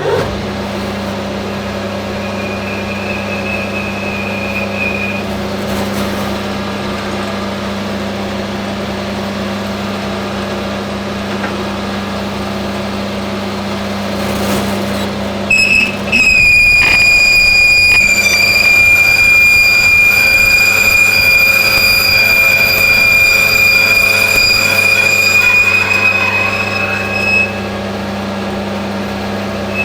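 Hafco AL960B metal lathe running steadily while the cutting tool works the part. About halfway through a high, steady squeal sets in and becomes the loudest sound, stopping near the end. A fainter squeal is heard early on. The squeal is tool chatter, which a heavier cut has not taken out.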